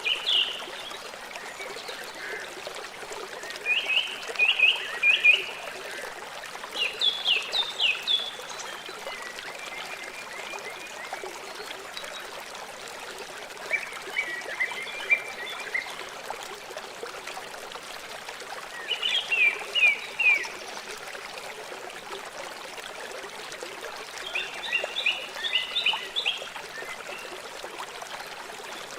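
River water flowing steadily. Over it, a bird repeats a short phrase of quick high notes about every five seconds.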